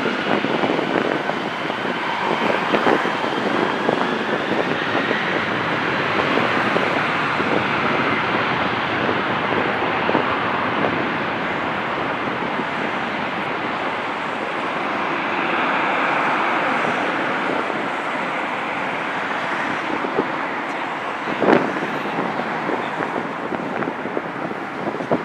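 Jet airliner engines running loud and steady as the plane passes, with a faint rising whine in the first few seconds and wind on the microphone. A sharp knock about 21 seconds in.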